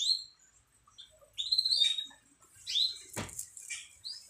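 Domestic canaries giving a series of short, sharp chirp calls. A brief noisy burst comes about three seconds in.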